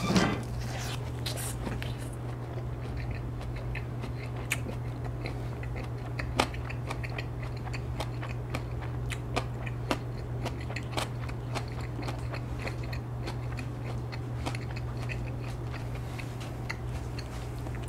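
A man chewing a mouthful of boiled pork bossam wrapped in lettuce, close to the mic, with many small irregular crunches and clicks over a steady low hum.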